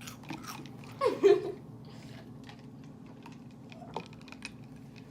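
Crunchy snack being chewed close to the microphone: a scatter of small crunching clicks over a steady low hum. A short vocal sound about a second in is the loudest thing.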